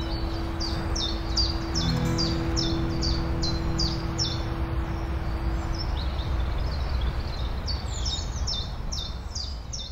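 Birds chirping over a steady wash of sea waves and wind; the chirps are short, high and fall in pitch, several a second. A held low music note fades out about halfway through.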